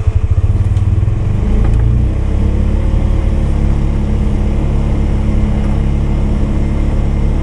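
Polaris 570's single-cylinder engine running. It throbs unevenly at low speed, then about a second and a half in the throttle comes up and it settles into a steady, higher-speed run.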